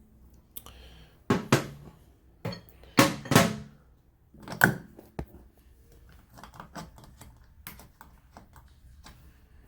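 Knocks and clicks of a Delta shower valve's handle and trim being loosened with an Allen key and pulled off, several louder knocks in the first five seconds, then lighter ticks.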